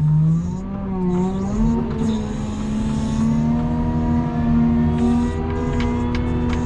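Engine of a snow-plowing machine pushing a 22-foot plow, running steadily under load. Its pitch rises over the first couple of seconds and then holds.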